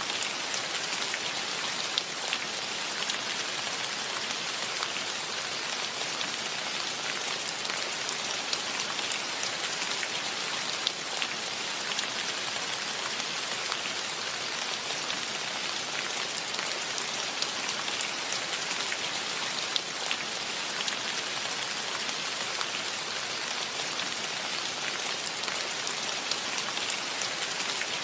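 Steady rain falling, a continuous hiss with many individual drops ticking close by throughout.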